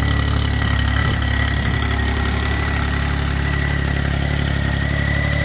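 1990 Geo Metro's 1.0-litre three-cylinder engine idling steadily just after a cold start, with a thin steady high whine over it.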